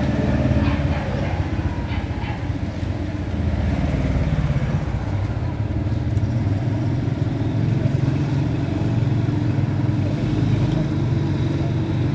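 A motor running with a steady low rumble, a little louder from about four seconds in.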